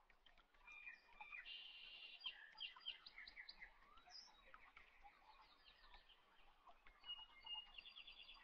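Faint birdsong: small birds chirping and trilling with quick repeated high notes.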